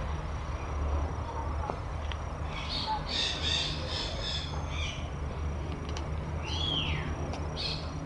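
Birds calling: a quick run of high chirps in the middle, then a single call that rises and falls in pitch and a short chirp near the end, over a steady low rumble.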